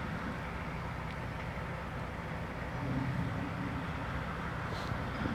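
HGV lorry's diesel engine and road noise heard from inside the cab while driving, a steady low drone that rises slightly about three seconds in.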